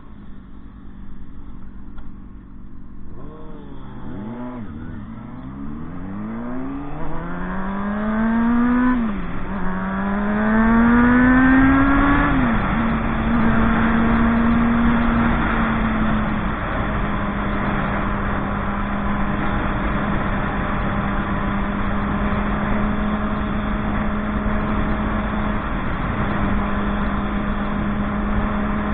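Motorcycle engine pulling away and accelerating, its pitch rising and dropping sharply twice as it shifts up through the gears, then holding a steady pitch at cruising speed.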